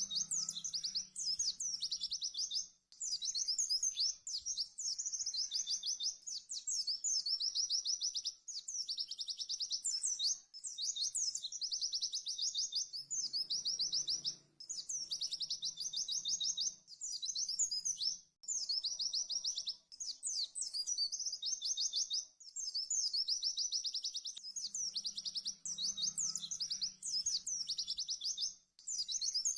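White-eye (pleci) singing fast, high trilled phrases of rapid-fire notes, the 'tembakan' song used in masteran tutoring recordings. Each phrase lasts a few seconds, and the phrases follow one another with only brief breaks.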